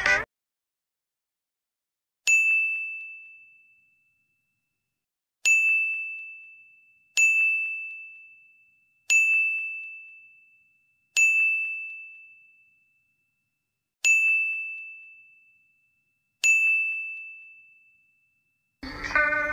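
A message-notification ding sounds seven times, a few seconds apart. Each is a single clear tone that rings out and fades over about a second and a half, with silence between. Music comes in near the end.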